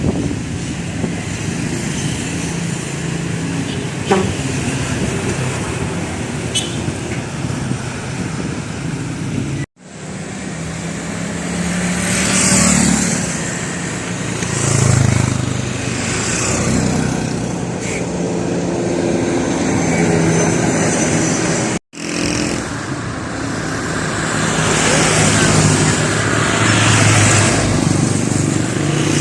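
Trucks and other road traffic driving past, engines and tyres swelling louder as each vehicle goes by, then easing off. The sound breaks off abruptly twice, about ten and twenty-two seconds in.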